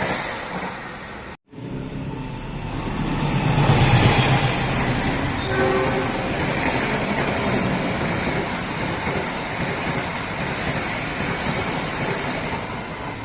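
Train passing close by at speed: a loud, steady rumble and rush of wheels on rails that swells to its loudest about four seconds in. The sound breaks off abruptly about a second and a half in, then resumes.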